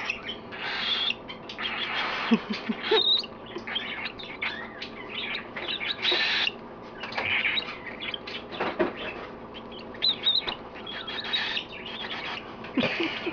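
Baby cockatiel making short, raspy food-begging calls again and again while being hand-fed, with a few brief high chirps.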